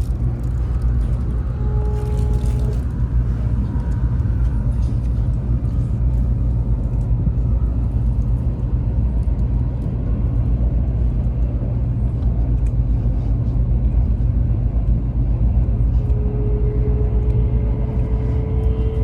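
Taiwan High Speed Rail bullet train running: a steady low rumble, with a faint whine that rises slightly in pitch near the end.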